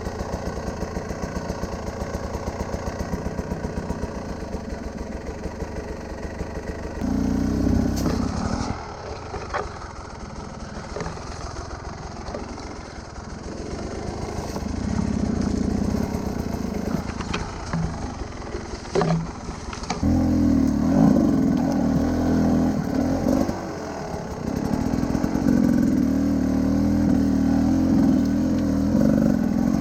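Large adventure motorcycle engine running at low revs with a steady pulse, then opened up in louder bursts of throttle about 7 seconds in and again through the last third. A few sharp knocks are heard in between.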